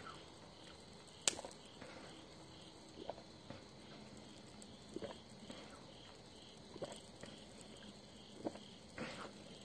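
Faint insects chirping in a steady, evenly repeating pattern, with scattered small clicks and taps and one sharp click about a second in.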